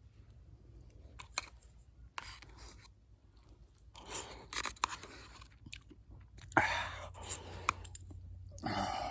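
Someone eating mapo tofu over rice: chewing and mouth sounds in irregular short bursts, with a few sharp clicks between them and the loudest burst about six and a half seconds in.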